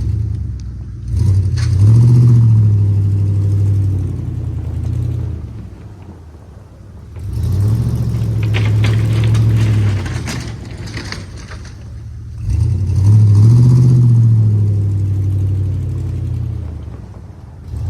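Ford N-series tractor's four-cylinder engine revving up under load three times, each surge holding for a few seconds before easing back to a lower, quieter running speed, as the tractor shoves snow with its front blade.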